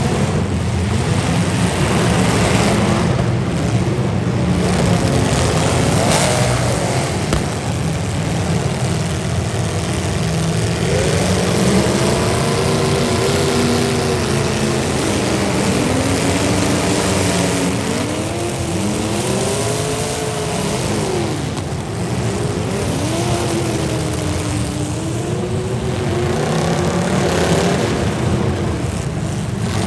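Demolition derby car engines running and revving over a loud, steady din, their pitch rising and falling again and again through the second half.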